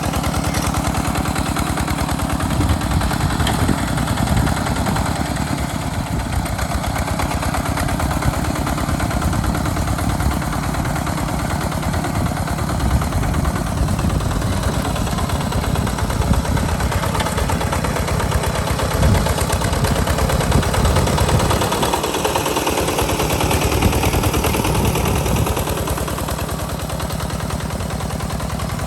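Walk-behind two-wheel hand tractor's single-cylinder diesel engine chugging steadily with rapid exhaust pops while plowing sandy ground.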